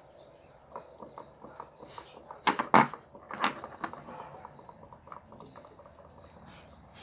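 A run of irregular clicks and knocks, like things being handled or bumped, with a louder cluster of knocks about two and a half to three and a half seconds in.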